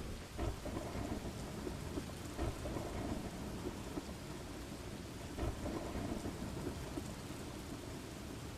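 Steady rain falling, with low rolling thunder rumbling underneath and swelling in places, as in a thunderstorm.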